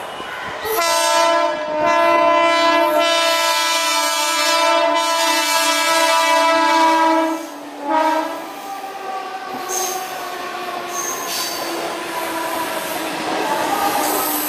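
15-coach Mumbai suburban EMU train sounding its horn in one long blast of about seven seconds, then a short second blast. After that comes the steady rumble of the train running along the platform, with a few brief high wheel squeals.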